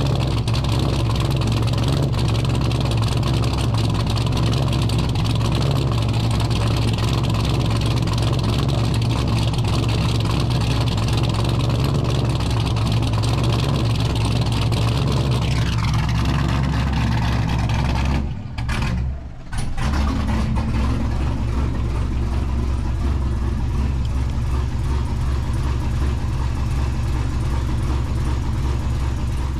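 A 2004 C5 Corvette's LS V8, fitted with a Comp Cams NSR drift camshaft, running loud and steady just after a cold start. The sound drops out briefly twice about two-thirds of the way through.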